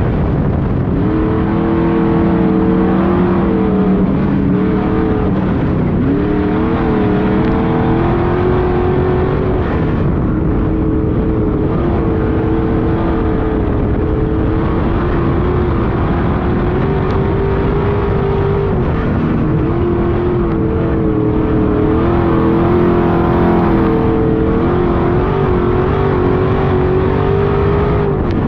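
Street stock race car engine running hard at race pace. Its pitch dips and climbs back every few seconds as the throttle lifts and comes back on, with a mix of other car engines around it.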